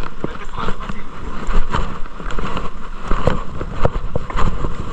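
Wind buffeting the camera microphone with an uneven low rumble, mixed with scattered short knocks and crunches.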